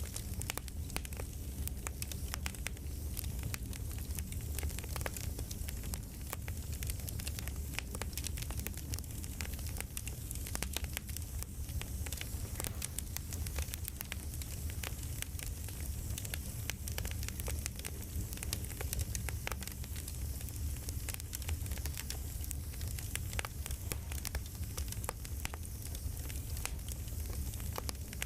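Campfire crackling: a steady low rumble of flames with dense, irregular pops and snaps of burning wood.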